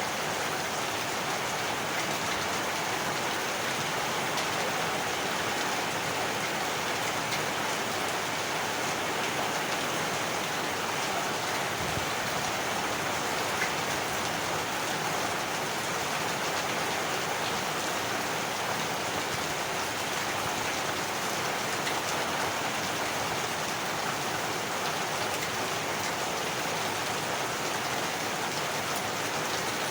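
Heavy rain falling steadily, an even hiss of rain on surfaces with scattered individual drops, unchanging throughout.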